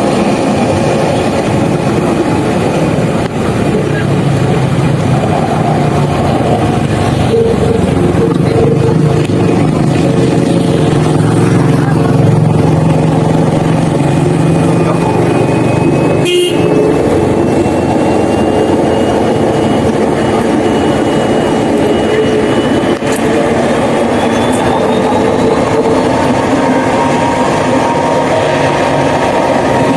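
Jet airliner engines running loud and steady, with a high whine that rises in pitch a little past two-thirds of the way through.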